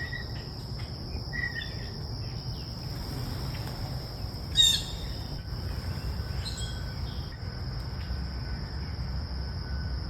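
A steady high drone of insects, with birds calling over it: a few short chirps near the start, one loud harsh call about four and a half seconds in, and another short call a couple of seconds later.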